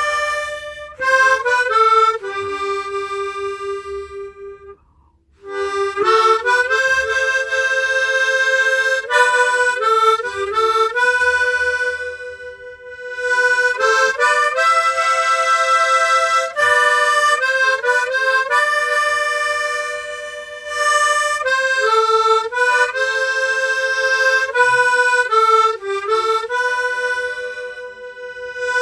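Hohner Echo Harp tremolo harmonica playing a solo melody of held notes, often sounding several at once, in phrases with brief breaths between them, the longest pause about five seconds in.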